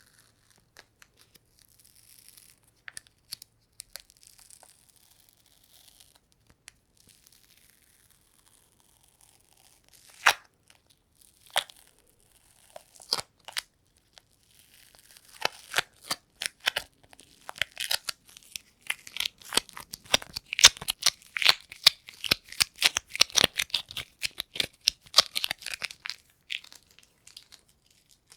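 Sticky, tacky crackling of an adhesive surface being pressed and pulled apart: scattered single snaps at first, then a dense run of rapid crackles from about halfway through, fading out near the end.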